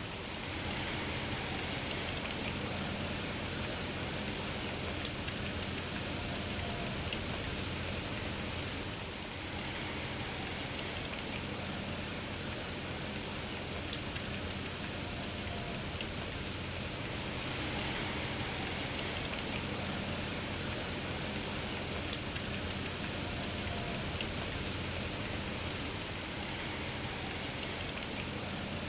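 Steady rain with a soft even hiss, broken by three sharp drip taps spaced about eight to nine seconds apart.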